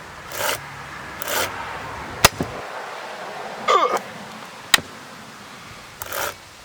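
Chain brake on a Poulan P3816 chainsaw being snapped on and released: two sharp clicks about two and a half seconds apart.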